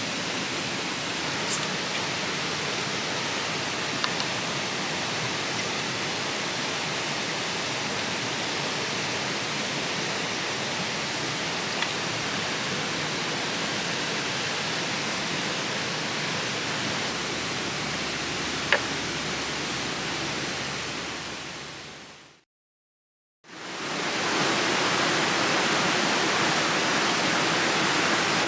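Mountain stream rushing steadily over its rocky bed, with a few sharp clicks now and then. Near the end the sound fades out for about a second and comes back a little louder.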